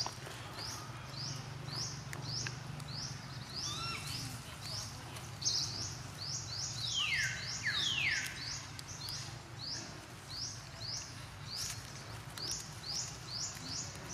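A bird chirping over and over, short high chirps about two a second, with two longer falling calls about seven seconds in. A faint low hum lies underneath for the first half.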